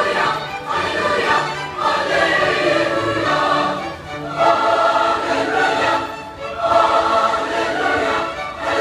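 Large choir singing Christmas music, sustained chords broken by short pauses between phrases, likely with orchestral backing.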